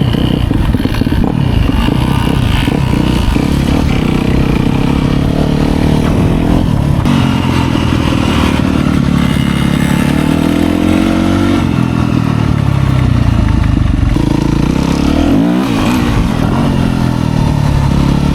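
Small kids' dirt bike engines running and revving as they ride off, the pitch rising and falling, with clearer revs about ten and fifteen seconds in.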